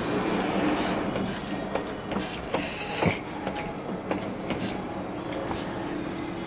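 Claw machine running, its motors humming with rattles and clicks from the gantry and claw as it carries a grabbed plush; a sharper clatter about three seconds in.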